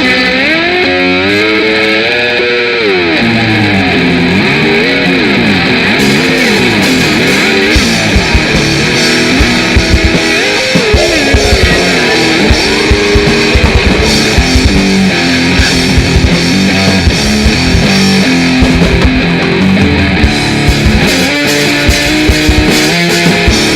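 A grindnoise band playing live, loud and distorted. Electric guitar slides and bends in pitch for the first several seconds, then fast drum hits join in about eight seconds in.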